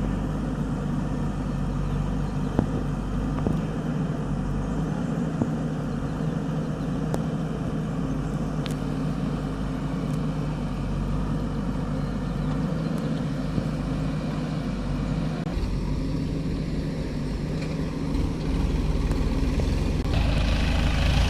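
Heavy diesel engine running steadily at low revs, growing louder and harsher near the end.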